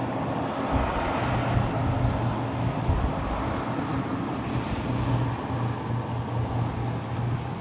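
An engine drones steadily with a low hum, while wind buffets the microphone in gusts.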